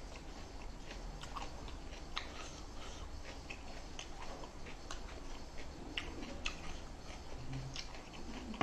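A person chewing food close to the microphone, with irregular small clicks from the mouth and food.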